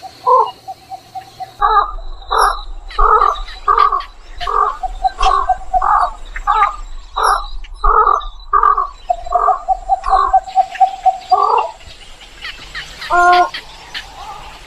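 Egret giving a run of harsh, croaking calls about twice a second, mixed with a buzzing rattle, then stopping and calling once more near the end.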